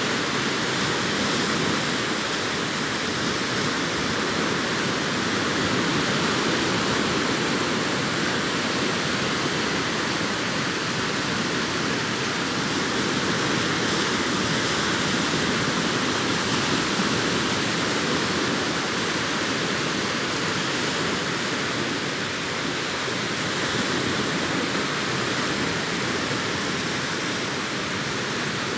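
Sea surf breaking on a beach: a steady rushing wash of waves that swells and eases slowly every several seconds.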